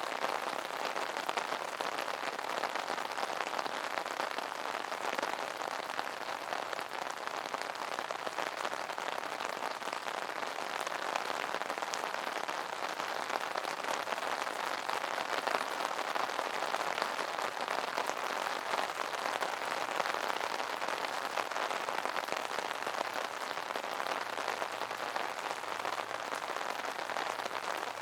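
Steady rain pattering on an umbrella canopy, a dense even spray of drop hits.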